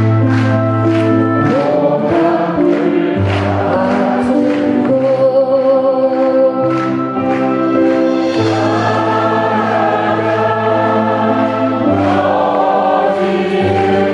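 Live concert music: many voices singing a Korean folk song together over band accompaniment with a steady bass line, with an even beat for the first couple of seconds.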